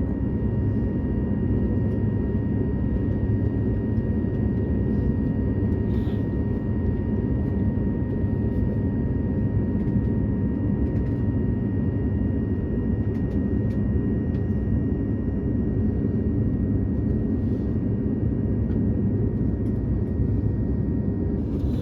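Steady cabin hum inside an Airbus A220-300 with its engines running: an even low rumble with a few faint constant whining tones above it, neither rising nor falling.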